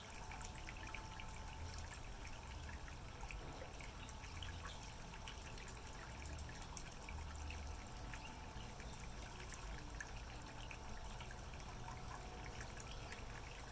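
Small garden waterfall pouring steadily into a pond, a faint continuous trickle and splash.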